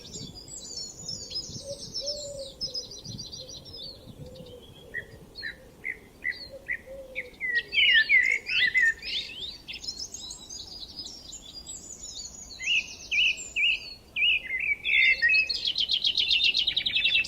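Several songbirds singing over one another in a spring chorus, with fast rattling trills about a second in, around ten seconds in and near the end, and strings of separate chirped notes in between.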